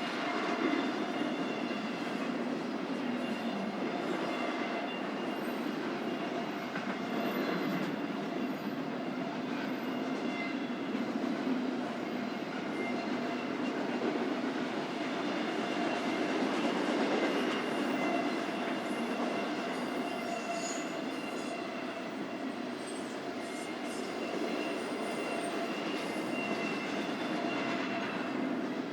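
BNSF intermodal freight train rolling past at steady speed, its wheels running on the rails, with faint steady high-pitched tones over the rolling noise.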